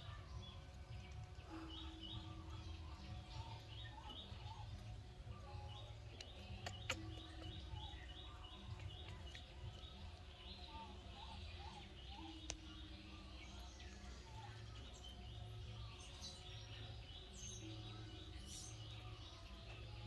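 Faint outdoor ambience: small birds chirping in quick repeated runs over a low steady hum, with a low steady note about a second long recurring four times.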